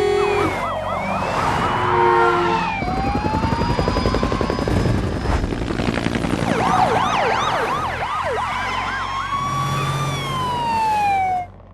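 Several police sirens wailing and yelping at once over dense traffic and engine noise, with short car-horn blasts near the start and about two seconds in. The whole din cuts off suddenly just before the end.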